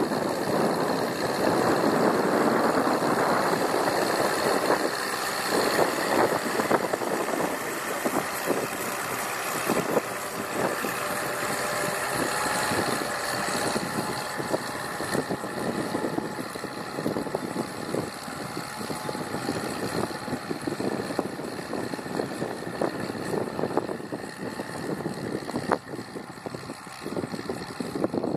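Fordson Major E1A tractor's six-cylinder Perkins P6 diesel engine running under load while ploughing, gradually getting quieter.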